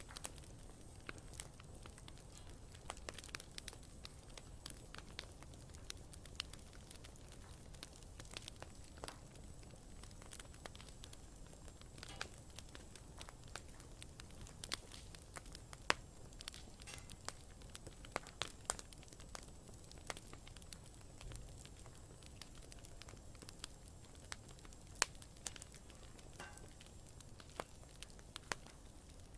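Campfire crackling: wood burning with a low steady rumble and frequent irregular pops and snaps, a few sharper ones standing out.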